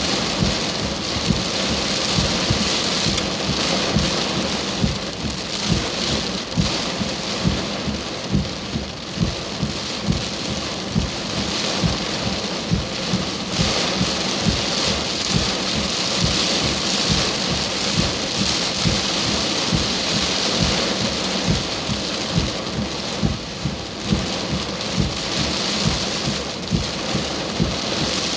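Heavy rain pouring steadily: a constant hiss with dense, irregular low thuds of big drops striking a hard surface close by.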